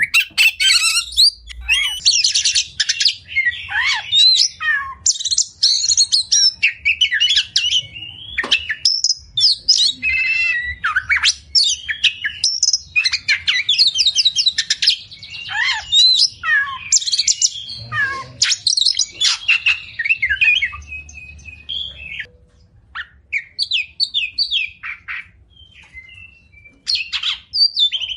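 Oriental magpie-robin (kacer) singing a long, varied song of fast chirps, whistles and rapid chattering trills, including imitated phrases of other birds. The song thins out for a few seconds near the end, then picks up again.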